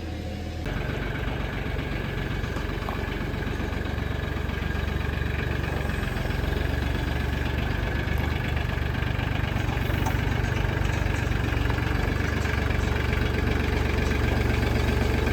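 An engine running steadily at idle: an even low rumble with a fast, regular firing pulse.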